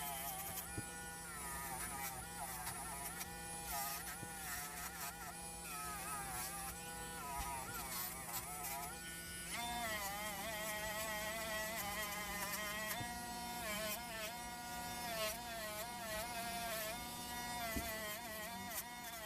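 Small high-speed rotary tool fitted with a Scotch-Brite pad, buzzing against a die-cast metal car body. Its whine dips and recovers in pitch as it is pressed on and eased off, then runs steadier about halfway through.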